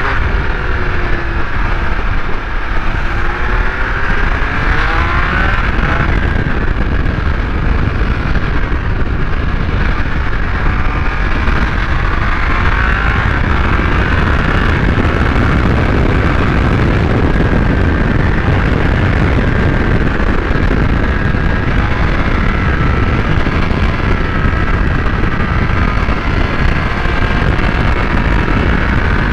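Triumph Speed Triple 1200 RS's inline three-cylinder engine running under way, its pitch rising and falling in the first several seconds and then holding steadier, under heavy wind rush on the microphone.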